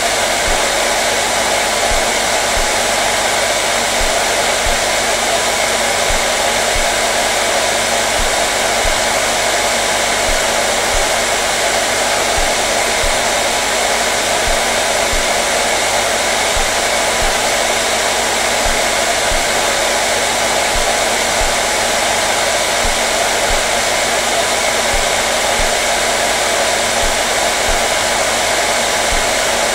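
Hair dryer running steadily: an even rush of blown air with a faint motor hum underneath.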